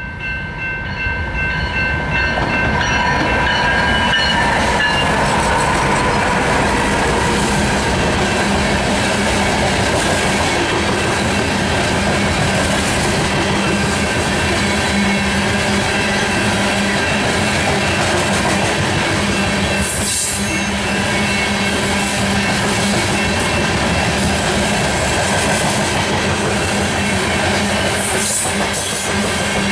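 BNSF loaded coal train passing close: a horn chord sounds for the first few seconds as the train arrives and grows louder, then the steady rumble and clatter of loaded coal cars rolling by on the rails. A couple of brief high squeals or hisses come through, about two-thirds of the way in and again near the end.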